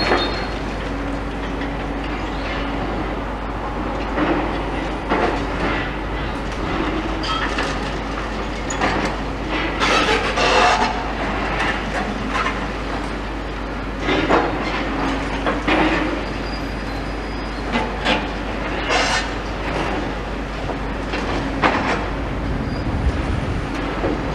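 Demolition machinery working on a building: a steady engine hum with irregular bursts of clattering and crunching, the loudest about ten, fourteen and nineteen seconds in.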